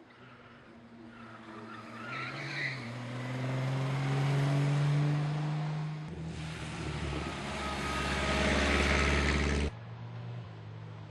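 Classic racing car engine accelerating hard up the hill, its note rising and growing louder. It is followed by a louder, rushing, rumbling stretch that cuts off abruptly near the end.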